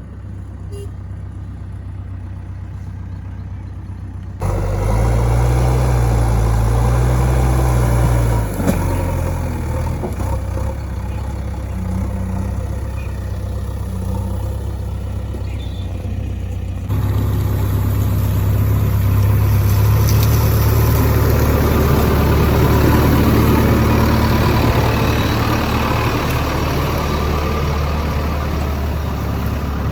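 Diesel engine of a JCB backhoe loader running while it digs and loads mud. About four seconds in it revs up and grows louder, its pitch rising and falling a few times, and it is louder still through the second half.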